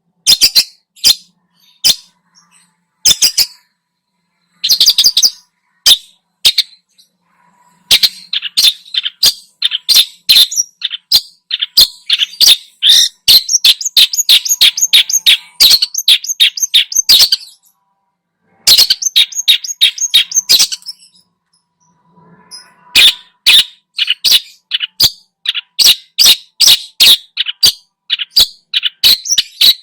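Long-tailed shrike singing a loud song of sharp, high notes, at first spaced out, then in fast dense runs broken by brief pauses.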